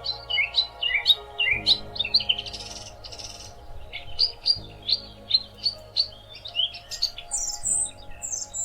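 Songbirds chirping and singing in quick, short notes, with a burst of higher, thinner notes near the end, over a soft ambient music bed of sustained chords that change every few seconds.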